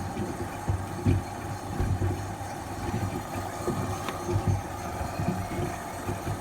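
LG front-loading washing machine running with a steady low hum, shoes tumbling in the drum and thudding at irregular intervals.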